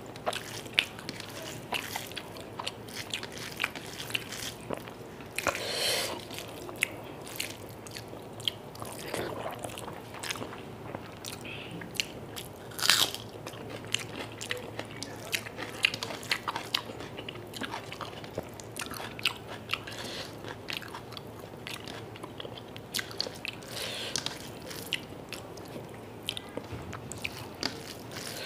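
Close-miked eating sounds: a person chewing mouthfuls of rice and chicken curry, with many short wet clicks and smacks and a few louder ones, along with fingers mixing the rice on a metal plate.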